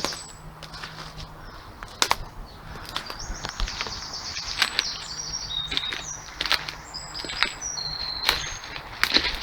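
A small songbird singing repeated high, rapid trills and short whistled notes, over footsteps with sharp snaps and cracks of twigs underfoot, one loud crack about two seconds in and several near the end.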